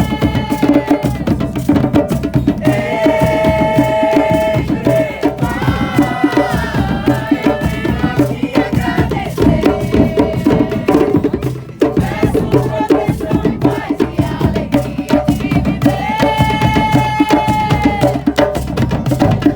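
Live band music: drums, rattles and other hand percussion keep a busy beat, while long held melody notes come in every few seconds.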